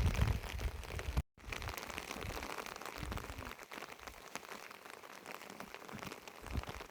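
Rain falling, an even patter of many small drops. A loud low rumble in the first second cuts off abruptly just over a second in.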